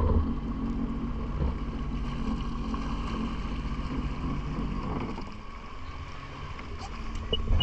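Boat engine running steadily under wind on the microphone, easing off somewhat about five seconds in.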